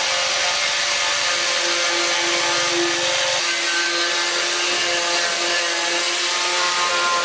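A power tool running steadily, a continuous whine over a hiss, its tone shifting slightly about three and a half seconds in.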